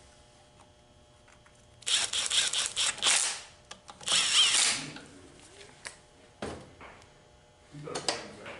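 Handheld power tool run in two short bursts, one about two seconds in lasting over a second and a shorter one about four seconds in, followed by a couple of brief clicks near the end.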